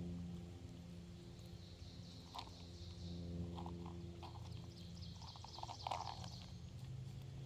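Birds calling in short chirps and a quick series of high notes over a steady low hum.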